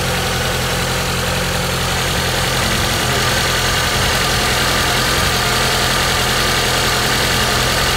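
Daewoo Sens four-cylinder engine idling steadily.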